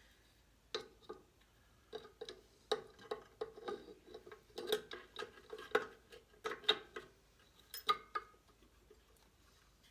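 Irregular light metallic clicks and clinks of small-engine parts being handled: the camshaft gear being worked into mesh with the crankshaft gear of a Honda 200cc engine to line up the timing marks. The clicks stop about eight seconds in.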